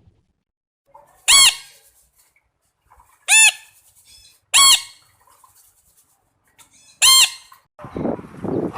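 A bird calling four times with short, loud calls spaced one to two and a half seconds apart, each call rising and then falling in pitch.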